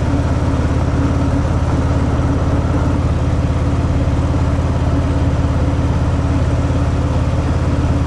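Harley-Davidson Fat Boy's V-twin engine through its stock exhaust, running steadily at an even engine speed with no revving.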